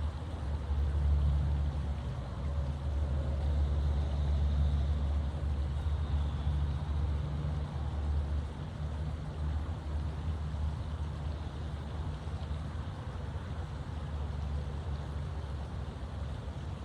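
Wind rumbling on the microphone: a steady low rumble that swells and eases over a faint even hiss.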